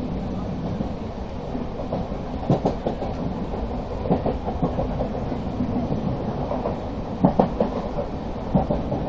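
Mumbai suburban electric local train running at speed, its wheels clattering over rail joints with a few sharp clacks, while another train passes close alongside on the next track.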